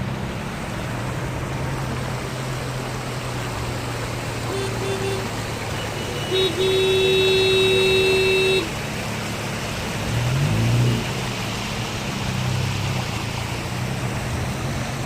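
A car horn honking: a short toot about four and a half seconds in, then a long, steady honk of about two seconds, over constant street noise of traffic.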